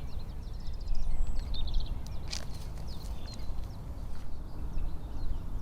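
Small birds singing outdoors: many short high chirps and a quick rattling trill, over a steady low rumble, with one sharp click a little past two seconds in.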